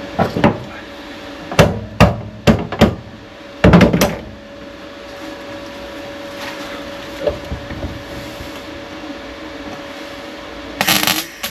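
Hammer blows on the steel body panel of the car: a handful of sharp single strikes in the first few seconds, then a quick cluster of blows. A short, loud rushing noise near the end.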